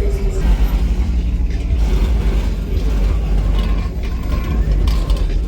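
Steady low rumble of car engines, with a few faint mechanical clicks over it.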